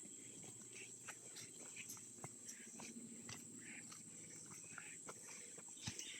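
Rainforest insects keep up a steady, faint, high-pitched drone, with scattered soft clicks and taps over it.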